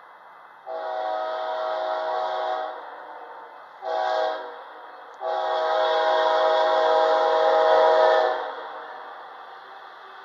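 Locomotive air horn sounding a chord in three blasts: a long blast, a short one, then a longer held blast.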